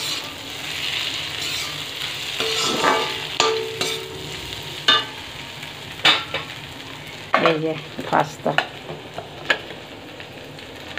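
Chicken, egg and vegetable mixture sizzling as it fries in a kadai, stirred with a steel spoon that scrapes and clinks against the pan. The sizzle is strongest in the first half; the spoon's clinks come scattered through the second half.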